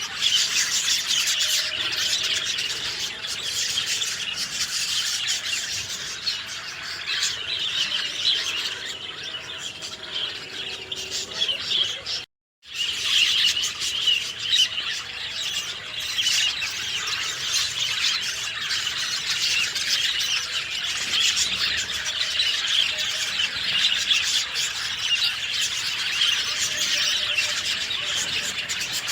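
A dense chorus of many small birds chirping and twittering all at once, with the sound cutting out completely for a split second about twelve seconds in.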